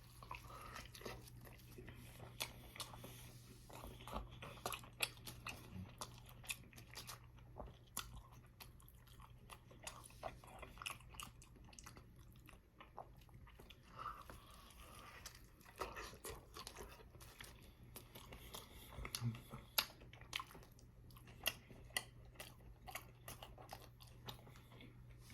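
Close-up chewing and biting of a Wendy's Baconator burger: irregular small wet mouth clicks and crunches, with a few louder bites about three quarters of the way through. A low steady hum lies underneath.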